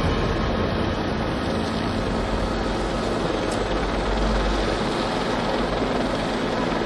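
Aircraft noise: a steady, even drone with a low hum underneath, no distinct bangs or scrapes.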